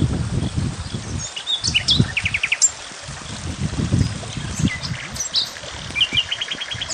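Small birds chirping, with two quick trills of rapidly repeated notes, about two seconds in and again near the end. Under them, bouts of low rustling or handling noise come and go.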